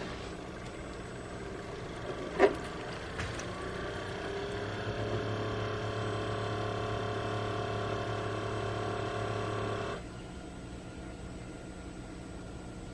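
A sharp click, then a single-serve coffee maker's pump motor hums with several steady tones that rise slightly in pitch and grow louder, and stops suddenly about ten seconds in, leaving a fainter background hum.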